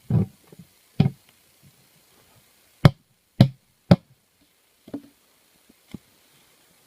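A series of sharp knocks and taps at irregular intervals, the three loudest coming about half a second apart near the middle.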